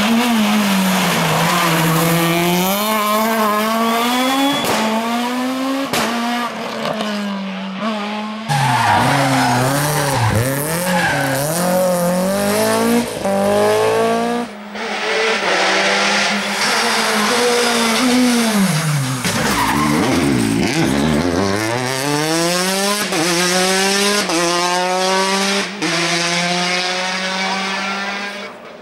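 Rally cars driven hard on a stage, one after another: engines revving high and falling back through gear changes and braking, with tyres squealing and skidding through the corners.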